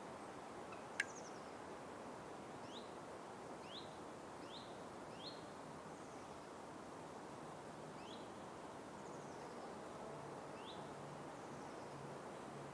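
Forest ambience: a steady background hiss with a small bird giving short rising chirps, several in quick succession and then a few more spaced out. There is one sharp click about a second in.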